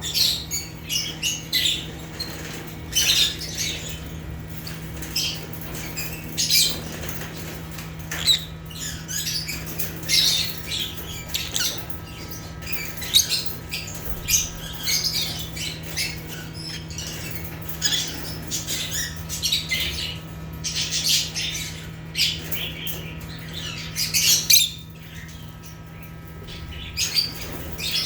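African lovebirds (Agapornis) chirping and squawking: many short, high, shrill calls overlapping almost without pause, easing off briefly near the end. A steady low hum runs underneath.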